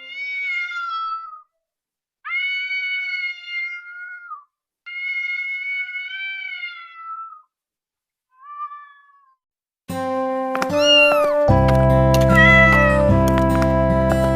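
A cat meowing: three long drawn-out meows and a short, fainter fourth one, separated by silence. About two-thirds of the way in, background music starts with more meows over it.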